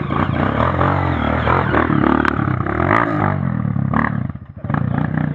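Off-road trail motorcycle engine revving hard under load on a climb, with a few sharp clacks; the engine sound dips briefly about four seconds in, then comes back up.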